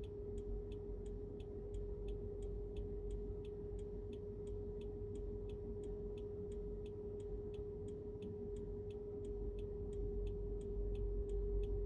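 Car turn-signal indicator ticking evenly, about three ticks a second, over a steady low hum and rumble inside the car's cabin.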